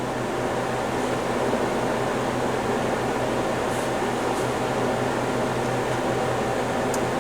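Steady whir of a heater running, with a low hum.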